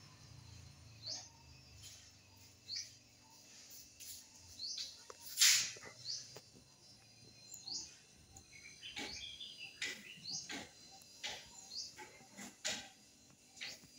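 A small bird chirping repeatedly: short, high, rising chirps about every second or two. About five seconds in comes one brief, louder rustle of noise, the loudest moment.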